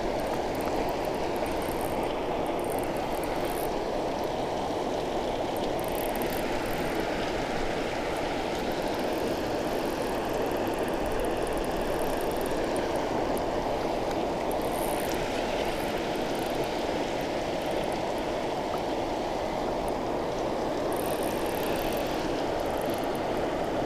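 Steady rushing of water pouring through a spillway, an even unbroken roar with no change in level.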